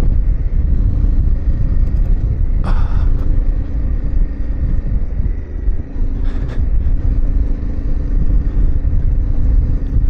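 Yamaha Ténéré 700's parallel-twin engine running steadily while riding, under a heavy low rumble of wind and road. Two brief rattles come about three and six seconds in.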